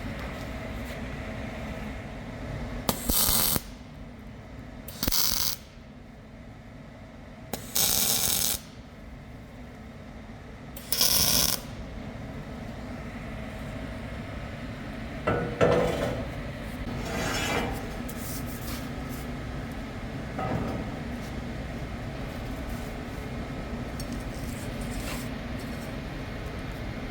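Four short, loud bursts of hissing, each about half a second to a second long and starting and stopping abruptly, over a steady workshop hum. A sharp metallic knock follows a little past halfway, then a few lighter knocks.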